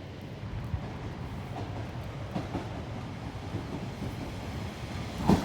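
London Overground Class 710 electric multiple unit running through the station not in service, a steady low rumble of wheels on rail.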